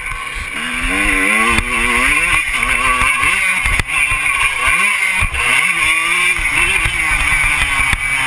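Motocross bike engine revving, its pitch rising and falling over and over as the throttle is worked, over a loud steady rushing noise.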